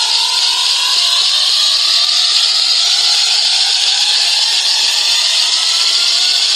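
A car engine running, its pitch slowly rising, under a loud steady hiss.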